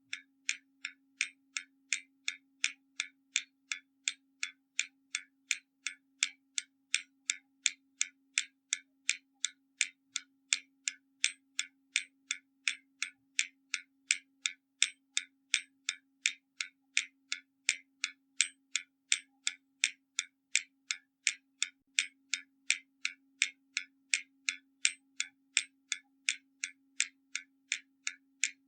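Hermle mechanical skeleton clock ticking, its escapement giving sharp, even ticks at about three a second.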